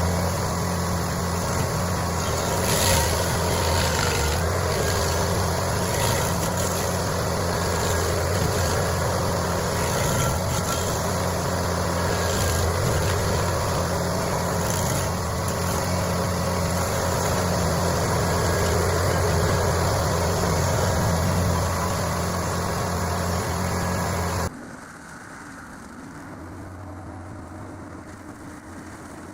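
Stump grinder's engine running steadily under load while its spinning cutting wheel grinds into a stump, with a constant hum and repeated surges of grinding noise. About four-fifths of the way through it cuts off sharply, replaced by a much quieter engine running.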